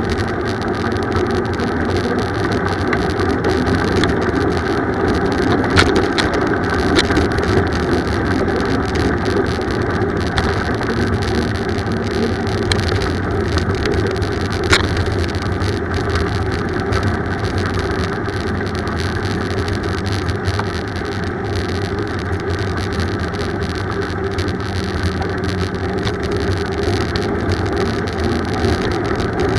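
Steady ride noise of a bicycle under way, heard from the moving bike: tyre and road rumble with wind, broken by a few sharp clicks or knocks, around six and seven seconds in and again near the middle.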